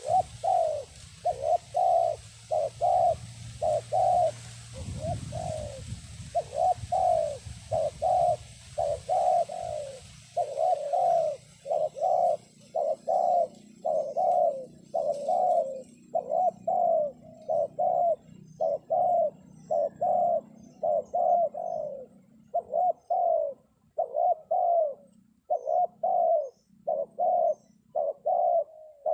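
Spotted dove cooing as a decoy lure call, short coos repeated about one and a half times a second without a break. The call is used to draw wild doves down to the trap.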